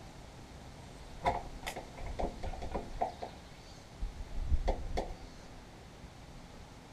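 Scattered clicks and light knocks of small metal parts and tools being handled while a fuel solenoid is worked onto a lawn tractor carburetor. Two sharp clicks come about a second in, then a quick run of knocks, and a louder cluster with dull thuds near the five-second mark.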